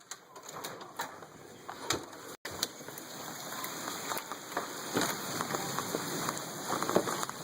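Heavy rain pouring down, a steady hiss of rain with many scattered sharp drop ticks.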